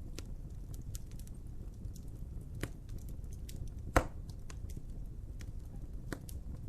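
Wood fire crackling: scattered sharp pops over a low steady rumble, with one loud pop about four seconds in.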